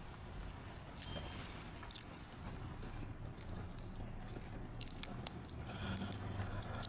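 Scattered light clicks and clinks from small hard objects being handled, over a faint steady low hum.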